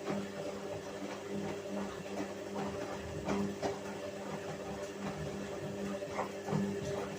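Whirlpool washing machine running a wash cycle: a motor hum that pulses about three times a second, with scattered light clicks and knocks from the turning drum.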